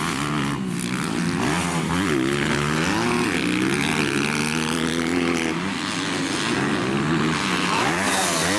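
Several 250 cc grasstrack racing motorcycles running hard, their engine notes rising and falling in pitch again and again as the riders throttle and shift.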